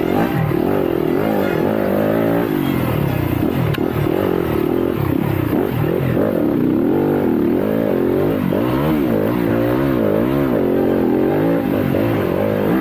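Yamaha YZ250FX four-stroke single-cylinder dirt bike engine being ridden hard, its pitch rising and falling over and over with throttle and gear changes.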